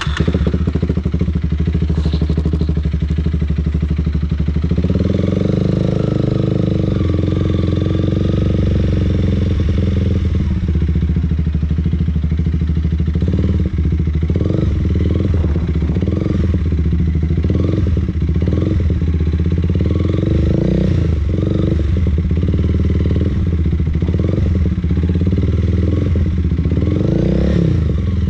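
Motorcycle engine running close by at low speed, its note rising and dipping again and again with small throttle changes.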